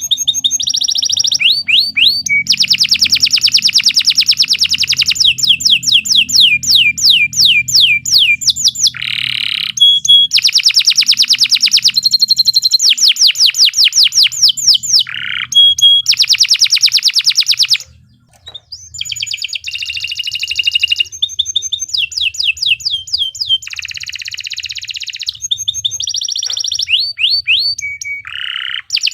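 Domestic canary singing a long, loud song of rapid trills and fast runs of repeated rising whistled notes, phrase after phrase, with a brief pause about 18 seconds in.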